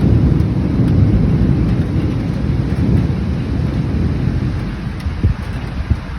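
Rain falling steadily under a long rumble of thunder that slowly fades away, with a few sharp taps near the end.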